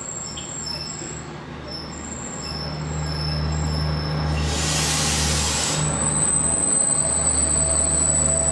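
Diesel multiple unit running into the station, its low rumble growing louder as it nears. About four and a half seconds in there is a burst of hissing air lasting about a second and a half. Then the wheels start a steady high-pitched squeal as the train slows.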